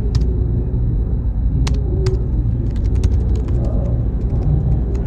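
Computer-room ambience: a steady low rumble of machines with a faint high whine, and scattered clicks of typing that come thicker in the second half.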